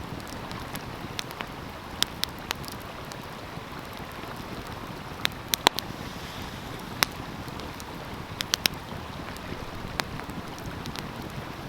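Stream water rushing steadily, with a wood fire crackling and popping over it in sharp, irregular snaps.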